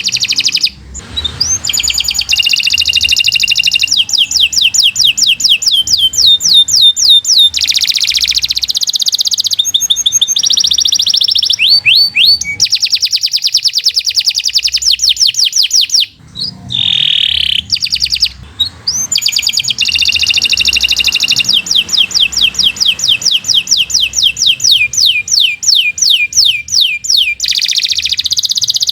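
Domestic canary singing a long, continuous song of rapid trills and rolls, one fast phrase after another, with brief breaks about a second in and about halfway through.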